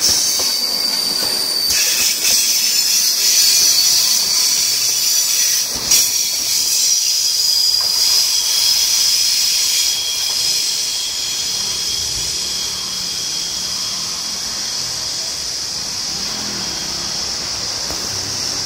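A train passing with its steel wheels squealing on the rails in a steady high-pitched screech. There is a sharp clank about six seconds in, and the sound eases off in the second half.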